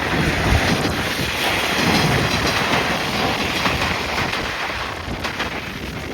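JR Shikoku KiHa 40/47 diesel railcar passing by, its wheels clattering over the rail joints. The sound swells quickly, is loudest over the first few seconds, then eases off, with wind on the microphone.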